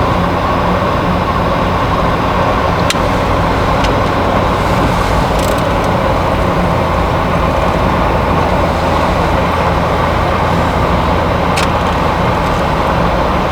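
Steady road and engine noise inside a moving vehicle's cabin, with a few faint clicks.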